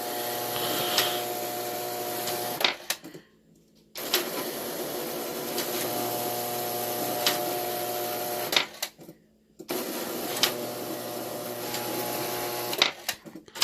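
Lionel D-64 dealer display accessories running off the 96C push-button controller: a steady electric buzz with a hum. It comes in three runs of a few seconds each and stops short between them.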